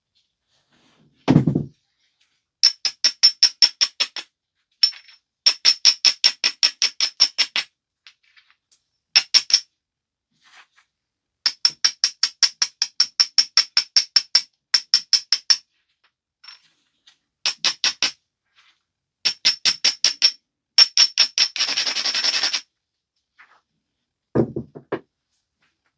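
A stone biface being worked along its edge in quick runs of short strokes, about six a second, each run ringing with a high clear tone. A dull knock comes about a second in and another near the end.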